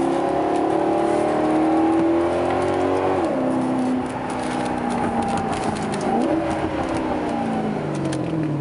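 Maserati GranTurismo V8 engine heard from inside the cabin, its pitch rising under acceleration, dropping sharply at a gear change about three seconds in, then easing down, with a short rev blip around six seconds in.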